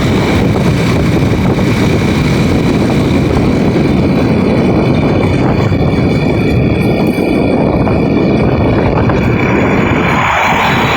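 Motorcycle riding at speed on a highway: heavy, steady wind rush and road noise over the running engine.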